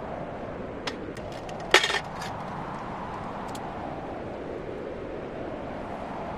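Steady rush of strong wind. A cluster of sharp clicks and clinks, the kind made by handling camp gear, comes between about one and two seconds in, the loudest near two seconds, and two faint clicks follow a little later.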